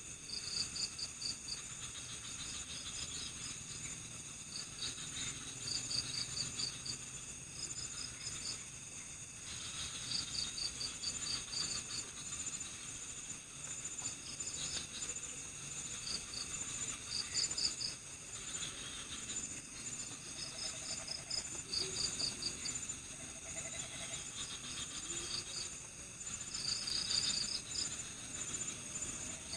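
Night forest insect chorus: a steady high-pitched drone with short pulsed cricket trills repeating every second or two over it.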